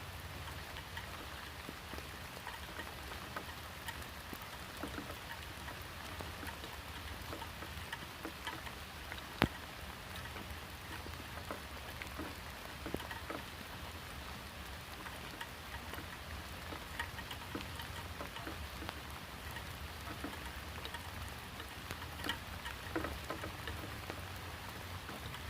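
Rain falling steadily, with many small scattered drop ticks and one sharp tick about nine seconds in, over a steady low rumble.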